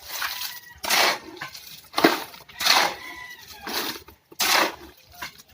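Wet concrete being worked by hand with shovels into a column footing: a scraping swish about once a second, five strong ones in a row.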